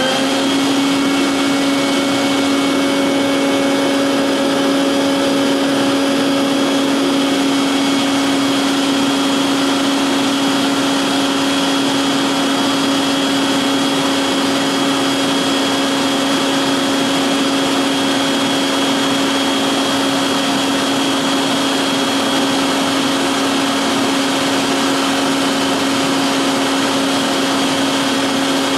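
Electric forge blower, a vacuum motor run in reverse, running steadily at full speed to force air into a coal fire. It makes a constant high whine over a strong rush of air.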